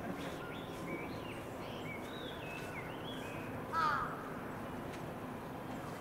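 Birds calling: a string of short, high chirping notes through the first three seconds, then one louder, lower call about four seconds in.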